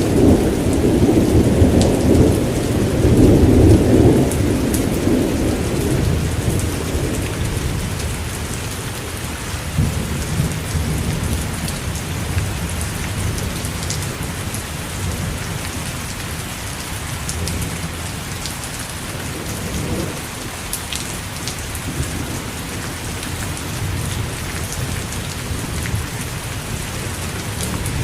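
Steady heavy rain falling, with scattered drops pattering. A low rumble of thunder fills the first few seconds and fades away.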